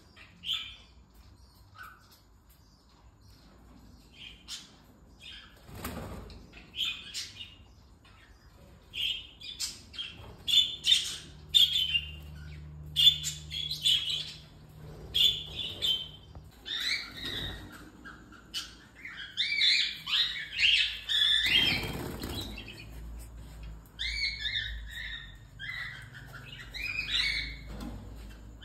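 Baby cockatiels chirping and calling in short repeated cheeps, sparse at first and growing busy and overlapping through the second half. A couple of soft bumps or rustles come in among them.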